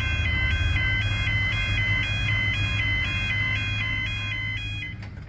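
Two-tone electronic warning alarm on a truck sounding high-low-high-low, about two cycles a second, over a steady low engine rumble; the alarm stops about five seconds in.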